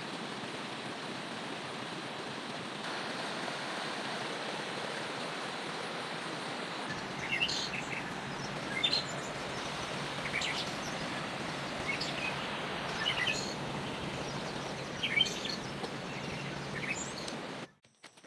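Steady rush of heavy rain and flooding river water, with short bird chirps scattered through the second half. The sound cuts off suddenly near the end.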